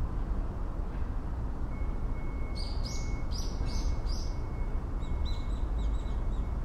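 A bird calling a quick run of four short, bright chirps, then a few fainter ones, over a steady low outdoor rumble and a thin, steady high whistle.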